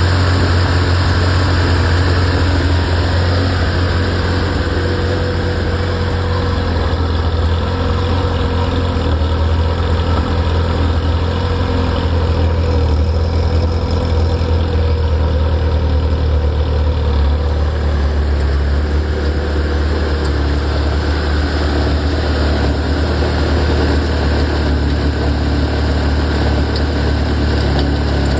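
Ferrari F355's V8 engine idling steadily, with the abnormal noise that comes from the front of the engine some tens of seconds after start-up.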